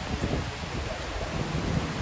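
Steady rain falling, with wind rumbling on the microphone.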